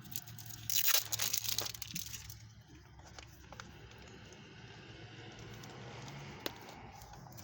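Toy packaging being ripped open: loud crinkling and tearing in the first two seconds, then quieter rustling as the contents are handled, with a single sharp click near the end.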